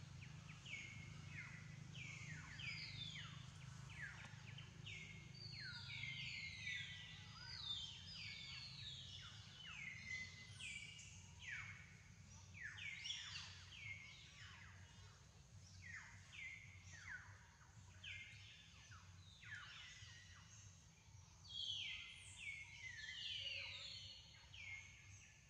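Faint chorus of birds calling, with many short downward-sliding chirps overlapping one another throughout, over a low steady background rumble.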